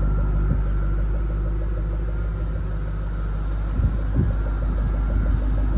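The Ford 4.6-litre DOHC V8 of a 2000 Qvale Mangusta idling steadily, with its exhaust note heard from the rear of the car.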